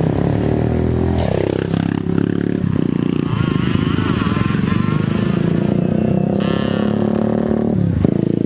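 Small-capacity underbone motorcycle engines running and revving, with the pitch falling just after a second in and the sound dipping briefly near the end.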